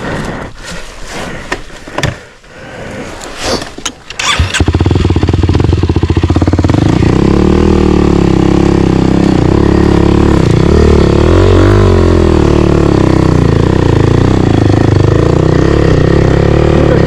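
Off-road motorcycle engine starting about four and a half seconds in and then running loudly, its pitch rising and falling with the throttle. Before it catches there are scattered knocks and clatter.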